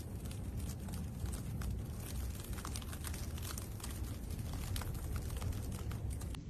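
Wind buffeting the microphone in a snowstorm, a fluttering low rumble, with many small crackling ticks scattered throughout.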